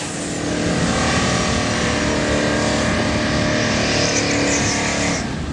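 Datsun 240Z with a swapped-in Nissan Skyline straight-six running at steady low revs as the car rolls slowly forward.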